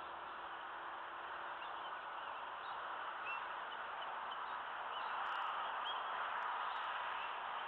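Steady outdoor hiss with small birds chirping faintly now and then.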